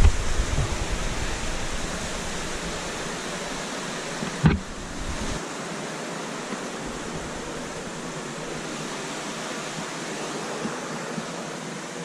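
Steady rush of falling water in a cave, a waterfall or cascade heard as an even hiss. A single sharp knock sounds about four and a half seconds in, and a low rumble underneath stops shortly after.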